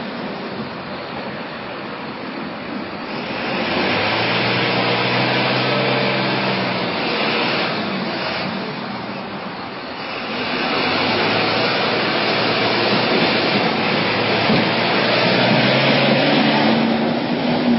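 Truck engine revving hard in two long pushes, the second from about ten seconds in with its pitch climbing near the end, over the hiss of wheels spinning in mud: the truck is stuck and not getting traction.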